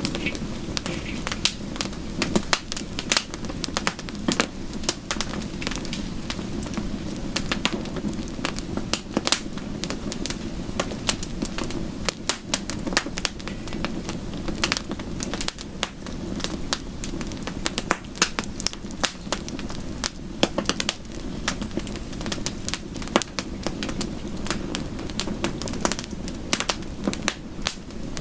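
Wood fire crackling, with frequent irregular sharp pops and snaps, over a steady soft rush of rain.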